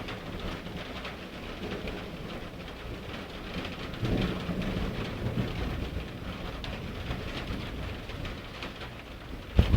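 Steady rain during a thunderstorm, with a low rumble of thunder swelling about four seconds in and dying away over the next couple of seconds. A short sharp crack just before the end.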